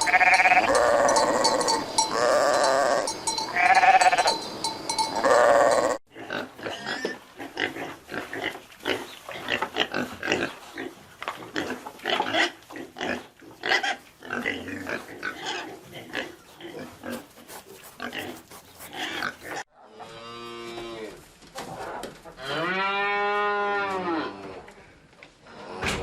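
Livestock calling in a string of short clips: loud repeated calls for the first six seconds, then a long run of short, sharp grunt-like sounds and clicks, then two long calls that rise and fall in pitch near the end.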